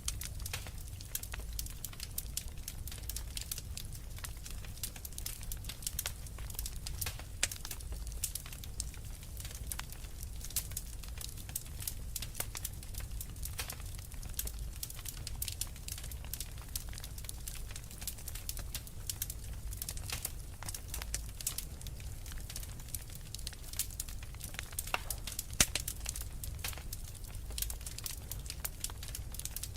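Wood fire burning in a fireplace: dense, irregular crackling and popping of burning logs over a low steady rumble, with a louder pop about 26 seconds in.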